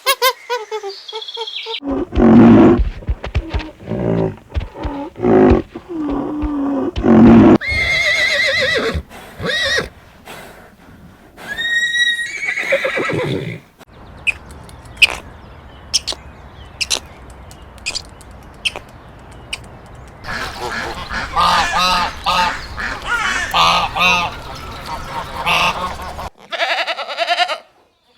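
A series of separate farm-animal calls, among them a horse whinnying.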